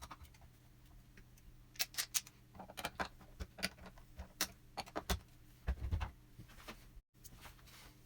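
Irregular light clicks, clinks and taps of small metal lamp parts being handled, with a few heavier knocks about six seconds in and a brief cut to silence just after seven seconds.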